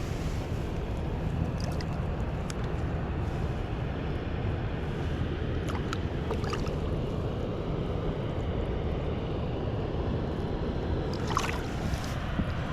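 Steady low rumble of wind and water around a kayak, with a few faint clicks scattered through it and a small cluster near the end.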